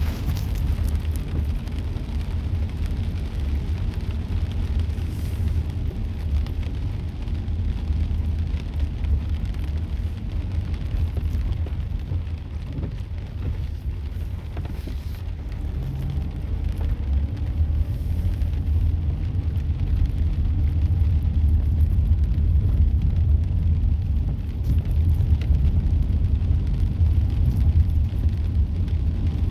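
Light rain falling, heard as a faint even hiss, over a louder steady low rumble.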